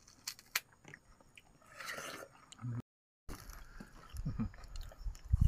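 A child chewing and biting juicy watermelon, with small wet mouth clicks. The sound cuts out completely for about half a second roughly three seconds in.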